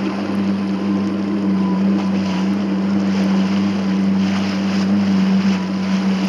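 Jet ski engine running at a steady speed, a little louder at the start, with water rushing and wind buffeting the microphone.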